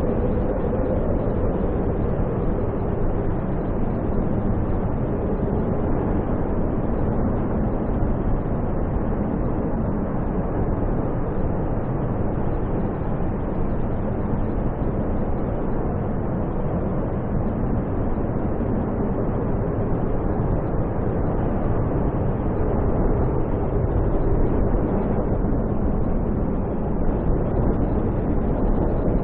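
Snowstorm wind blowing steadily as an even, deep rushing noise with no breaks.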